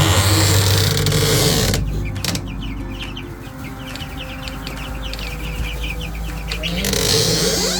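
Chickens clucking, with a quick run of short high calls over a steady low hum.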